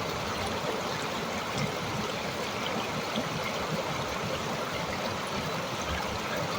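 Flowing stream of water, a steady babble with small splashes and trickles throughout.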